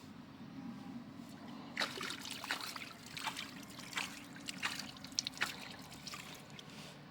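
Water splashing and trickling: a run of about eight short splashes over a few seconds, over a steady low hum.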